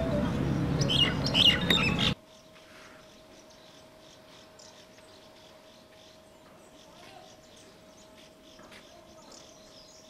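Birds chirping over a loud low rumble that cuts off abruptly about two seconds in. After that comes a quiet background with faint scattered chirps and a steady faint hum.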